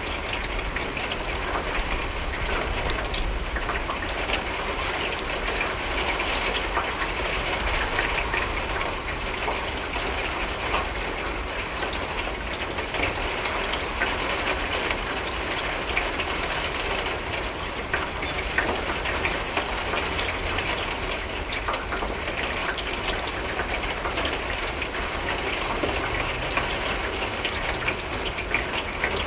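Steady rain on a window pane, with many small drop ticks over an even hiss and a low steady rumble underneath.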